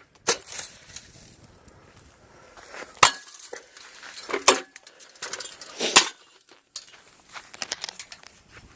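Sharp clinks and knocks of a ceiling fan's metal and glass parts being struck and broken, with three louder hits about three, four and a half and six seconds in, and lighter ticks between.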